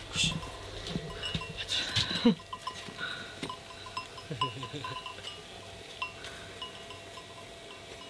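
Goats with bells on, the bells clinking in short, irregular rings, with a brief bleat about two seconds in.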